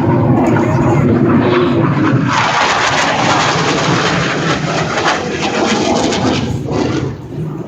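Blue Angels display aircraft flying past, a loud engine rumble that turns into a broad rushing hiss after about two seconds and fades near the end.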